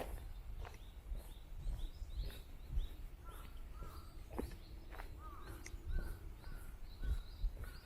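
Footsteps on a park path, with wild birds chirping all around; in the second half one bird repeats a string of short, arching call notes.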